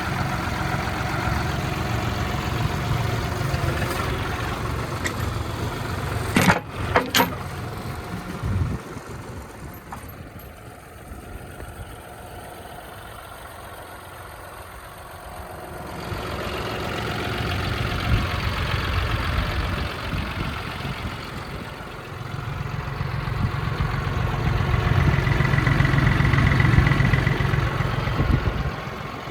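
John Deere 5055E tractor's diesel engine running, its sound fading for several seconds in the middle and coming back louder near the end. A few sharp loud knocks come about seven seconds in.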